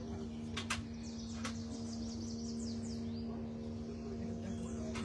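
A songbird singing a quick series of high down-slurred notes about two seconds in, over a steady low hum, with two sharp clicks in the first second and a half.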